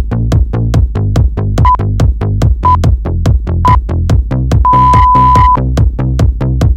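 Electronic dance music with a fast steady beat, over which a workout interval timer gives three short beeps a second apart and then one long beep: the countdown to the next exercise interval.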